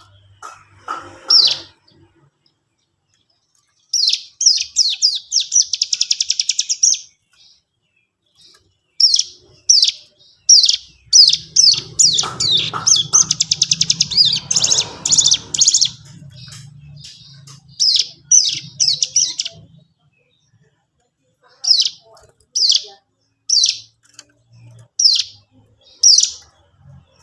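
Cigun songbird singing: a series of short, sharp high chirps with two fast, rattling trilled runs, broken by brief pauses. A low hum sits under the song in the middle.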